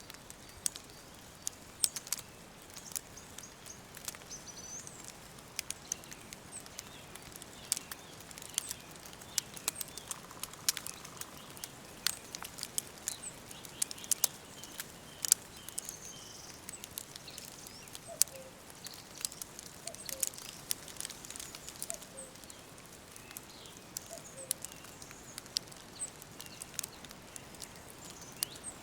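Woodland ambience: a soft steady hiss with many sharp, irregular clicks and faint, scattered high bird chirps.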